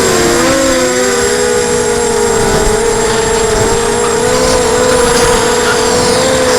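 Emax 250 quadcopter's motors and propellers whining steadily, several close pitches drifting a little up and down as the motors adjust their speeds, over wind buffeting.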